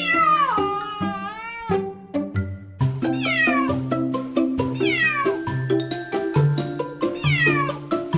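A cat meowing over background music: one long, drawn-out meow that falls and wavers, then three shorter meows that slide down in pitch, about two seconds apart.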